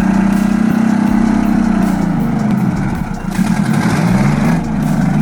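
Heavy vehicle's engine running steadily. About three seconds in its pitch drops and the level dips briefly, then the pitch climbs again as it revs back up.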